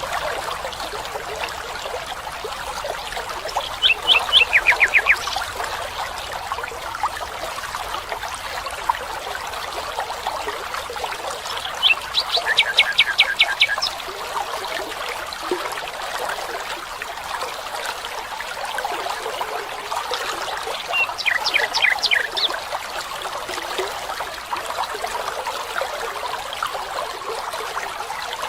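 Steady trickling of running water, with a bird calling three times, each call a quick run of clipped notes that steps down in pitch.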